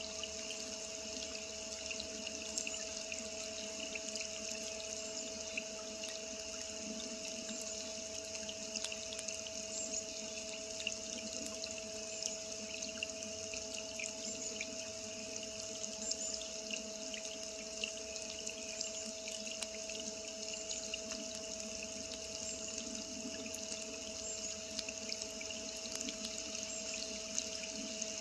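Rain falling on a pool of standing water, many small drops pattering and ticking steadily on the surface, over a faint steady hum.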